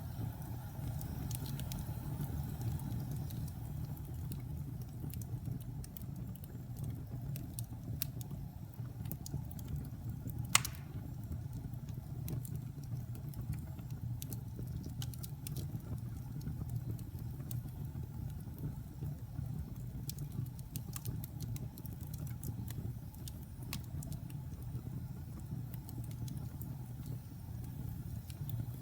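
Wood fire burning in a fireplace: a steady low rumble of the flames with scattered small crackles, and one sharp, loud pop about ten seconds in.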